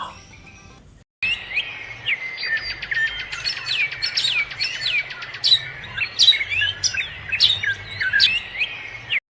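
Songbirds chirping: quick, varied chirps and whistles that rise and fall, starting about a second in and cutting off just before the end.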